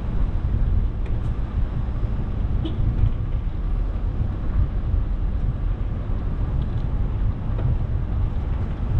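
Steady low rumble of wind buffeting the microphone of a moving bicycle, mixed with road noise from car traffic.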